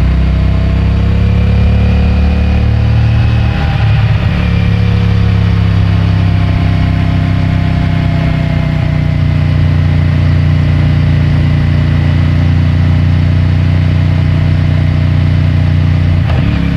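CFMOTO 450MT's 449 cc parallel-twin engine on its stock exhaust, riding along. It pulls up slightly in pitch, breaks off briefly about four seconds in as a gear changes, then runs at a steady cruise, with another short break near the end. It is picked up by a microphone in the rider's rear pants pocket.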